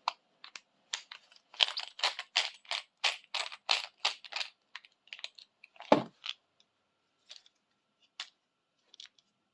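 Small hard parts of a camera tripod and a nut being handled: a quick run of light clicks and taps, then one louder knock about six seconds in, and a few faint clicks after.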